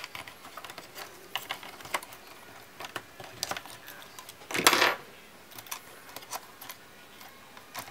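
Small plastic and metal clicks and taps from laptop parts being handled during repair work. About four and a half seconds in comes one louder, short scrape.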